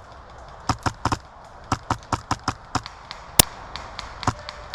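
Airsoft guns firing: quick strings of sharp cracks, several a second, in two runs, then one louder single crack a little past three seconds in and another near the end.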